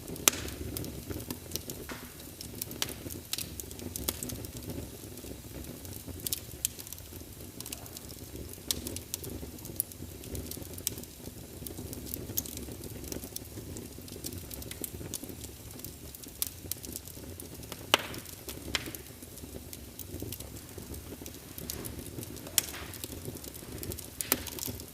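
Birch log fire crackling in a fireplace: a steady low rumble of flames with scattered sharp pops, the loudest right at the start and about eighteen seconds in.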